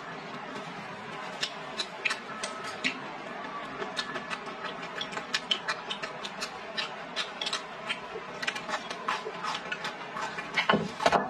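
Close-miked chewing and slurping of stir-fried greens: many irregular wet clicks and crunches from the mouth, with a louder slurp near the end.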